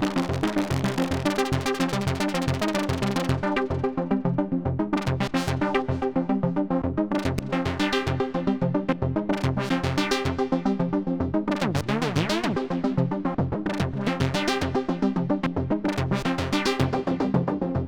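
Polyend/Dreadbox Medusa synthesizer playing a fast sequenced pattern of pitched notes over a pulsing bass line. About twelve seconds in, a wobbling, bending tone sweeps through.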